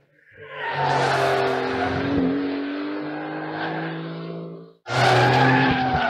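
Turbocharged three-litre flat-six of a Porsche 911 GTS (992), heard through its sports exhaust while cornering on a track. The engine note fades in and holds a fairly steady pitch, then cuts off abruptly near the five-second mark as a new loud stretch of engine sound begins.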